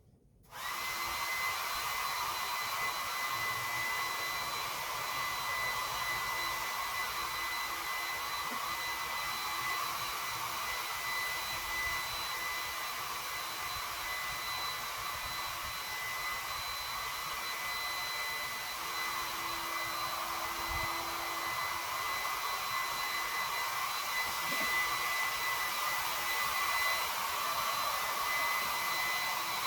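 Heat gun switched on and running steadily: an even rush of blown air with a thin high whine, the kind used to heat-shrink window tint film.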